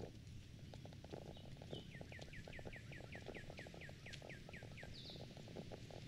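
A songbird sings a quick run of about a dozen repeated falling whistled notes, with a few higher notes before and after. Under it come steady crunching footsteps on the trail and a low distant rumble.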